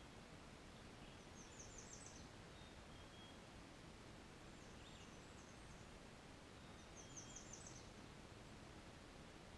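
Faint songbird song: a short, high trill of about six quick notes, heard twice about five seconds apart, with a fainter phrase and a few soft thin notes in between, over a steady background hiss.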